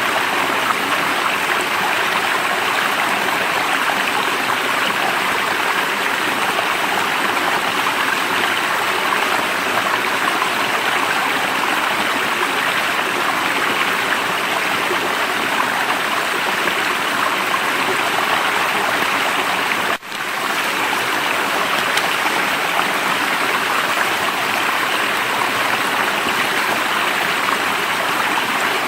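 Running water of a stream, a steady even rush. About twenty seconds in it cuts out for an instant and comes straight back.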